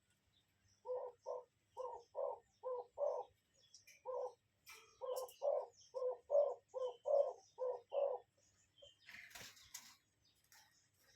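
A bird calling in a quick series of about fifteen short, low calls, some in close pairs. A brief rustle follows near the end.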